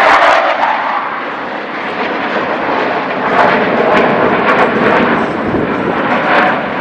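An aircraft flying past, its engine noise sweeping down in pitch during the first second, then a steady rush of noise.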